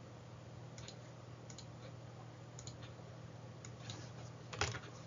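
A few scattered clicks and taps on a computer keyboard, one louder click near the end, over a steady low hum.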